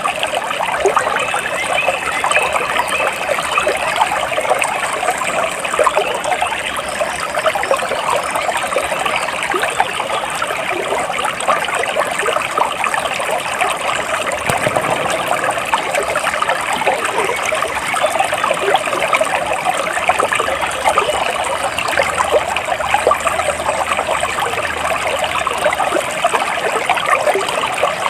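Flowing water trickling and splashing steadily, like a small stream running over stones.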